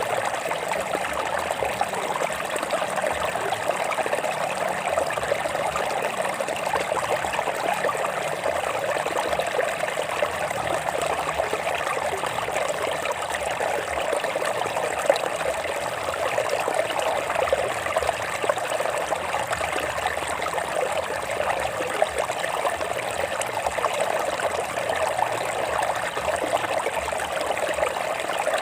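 A stream of water running over rocks, a steady, unbroken trickling rush.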